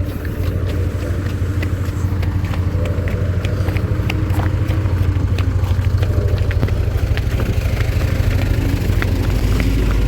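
A motor vehicle engine running steadily at low speed close by, with a fast even pulsing, and scattered small clicks over it.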